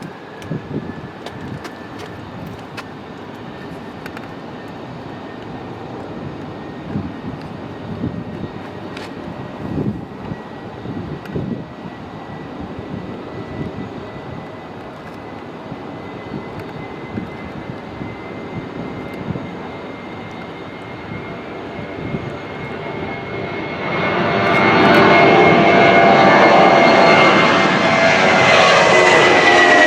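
Jet airliner's engines: a high turbine whine slowly building, then from about three quarters of the way in a loud jet roar as the aircraft passes close, its pitch dropping at the end.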